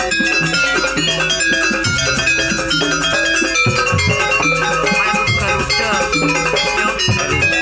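Gamelan music for a jaranan dance. Many metallophone-like tones ring in a dense melody over repeated low drum strokes.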